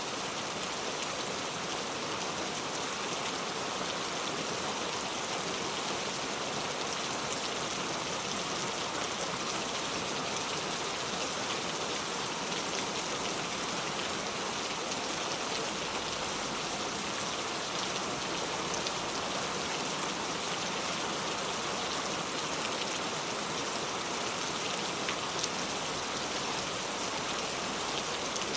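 Steady rain falling, an even hiss of many drops with fine pattering ticks.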